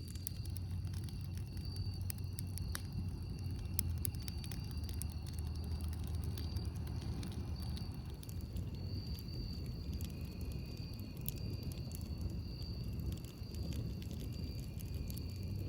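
Campfire burning: scattered wood crackles and sharp pops over a low steady rumble, with a faint high-pitched tone that comes and goes.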